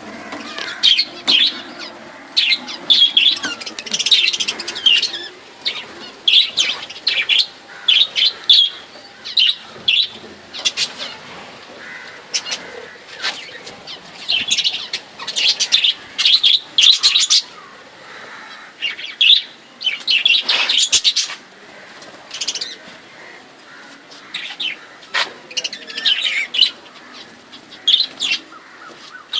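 Several budgerigars in an aviary cage chirping and chattering, short sharp chirps coming in quick overlapping clusters with brief lulls between.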